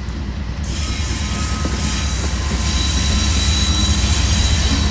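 GE diesel-electric locomotives of a loaded rock train rolling past close by: a steady low engine rumble with steel wheels hissing on the rails, growing louder as the second unit comes alongside. A thin, high wheel squeal joins about halfway through.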